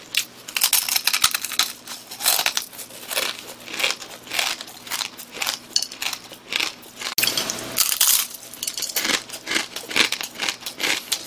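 Close-up crunching of someone chewing dry, uncooked instant ramen noodles: a dense run of irregular crackles and crunches.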